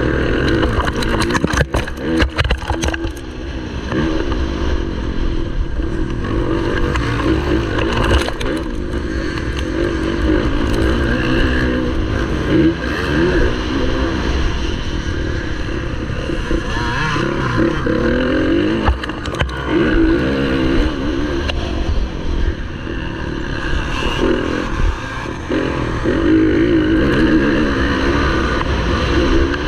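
A motocross bike's engine revving hard and backing off again and again, its pitch rising and falling as it accelerates and brakes through the track. Now and then there are sharp knocks and rattles, most often near the start.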